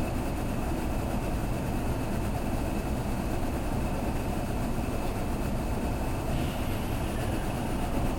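Kintetsu limited express train heard from inside the passenger car as it pulls into a station: a steady rumble of wheels and running gear with a faint high whine.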